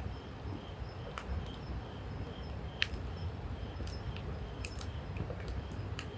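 Wood campfire crackling: scattered sharp pops and snaps of burning sticks and logs, the loudest about three seconds in, over a steady low rumble.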